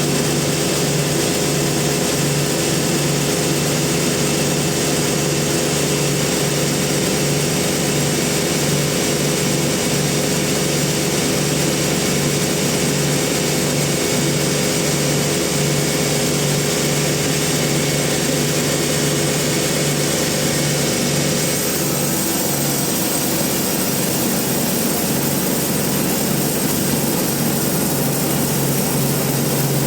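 Industrial bandsaw mill running steadily with a constant machine hum; its tone shifts slightly about two-thirds of the way through.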